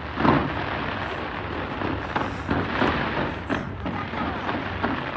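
Aerial fireworks bursting in quick succession: a continuous run of overlapping bangs and crackles, the loudest about a quarter second in.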